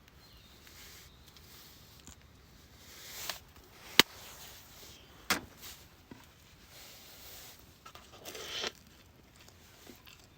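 A few scattered sharp clicks and knocks, the loudest a single sharp click about four seconds in, with short rustling noises between.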